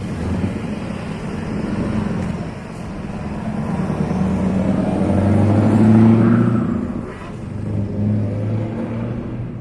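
Scania R560's 16-litre V8 running through an open exhaust pipe under acceleration. The note builds to its loudest about six seconds in, drops back briefly, rises again, then eases off near the end.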